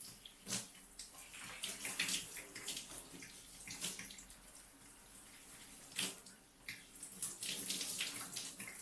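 Water running and splashing unevenly as co-wash lather is rinsed out of hair.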